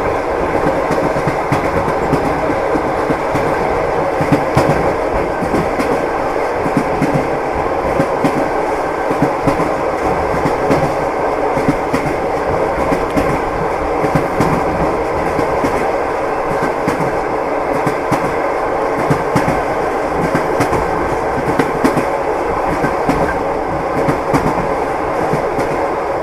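Train wheels clattering over the rail joints in an irregular series of clicks, over the steady rumble of the moving train.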